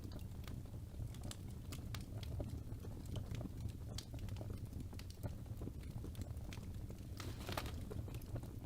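Wood fire burning in a fireplace: a steady low rumble of the flames with irregular sharp crackles and pops from the burning logs, and a short cluster of crackles near the end.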